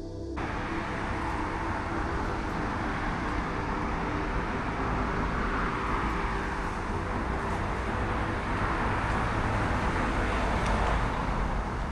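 Steady outdoor road-traffic noise, a rushing hiss over a low rumble. It cuts in abruptly about half a second in and swells slightly toward the end.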